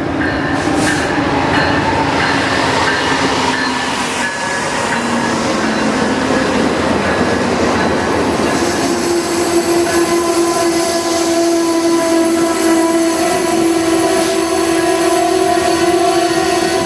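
Amtrak passenger train rolling into the station with a steady rumble on the rails. From about halfway, the brakes add a steady squeal of several tones as the train slows toward a stop.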